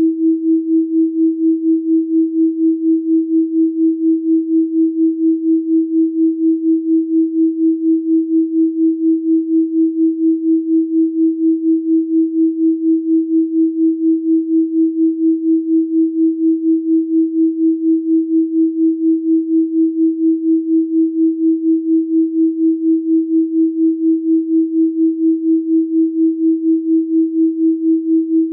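Synthesized pure sine tone at 324 Hz, held at one steady pitch, with an even pulsing in loudness several times a second.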